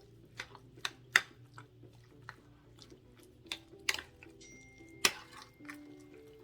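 Irregular sharp clicks and taps of kitchen utensils and containers being handled while making a mayonnaise-based chicken spread, over soft background music.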